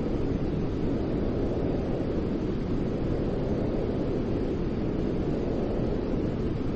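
Continuous sleep-aid white noise for soothing a baby: a steady, deep rushing hiss that stays the same throughout, heavier in the low end than the high.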